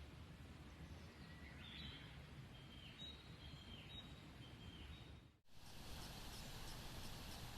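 Faint forest ambience with a wild bird singing a short series of whistled notes, each with a quick downward flick, several notes under a second apart. About five seconds in the sound cuts to a slightly louder background with faint rapid high ticking.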